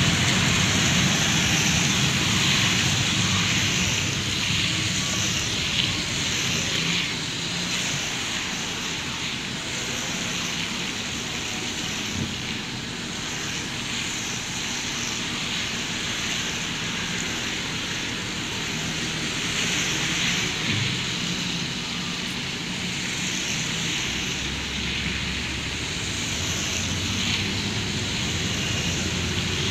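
Steady rain on a car, heard from inside the cabin, over the low hum of the car itself in slow traffic.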